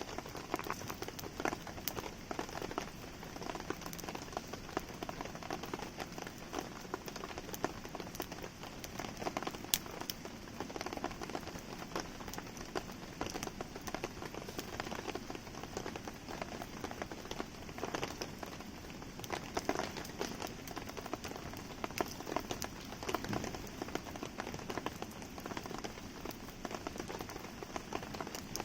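Steady rain falling, with a wood campfire crackling: an even hiss dotted with many small, sharp ticks and pops.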